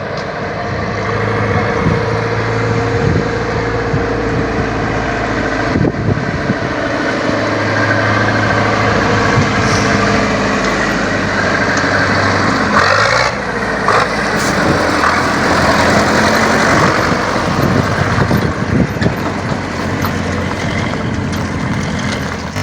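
Tractor diesel engine running steadily, with a few short knocks along the way.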